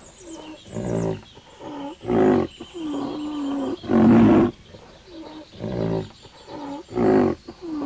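Fox calling: a series of loud, harsh calls about every one to two seconds, with shorter whining, pitched calls between them.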